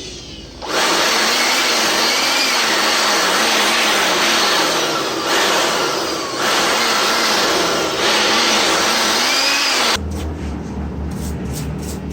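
Electric power duster blowing a strong, steady jet of air to clear dust from GPU mining rig parts. It starts about a second in, eases off briefly a few times, and cuts off sharply near the end, leaving a lower hum with quick clicks.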